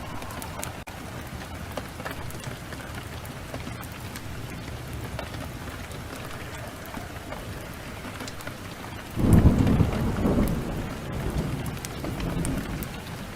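Steady heavy rain, with a sudden clap of thunder about nine seconds in that rolls on as a deep rumble for a few seconds before fading back under the rain.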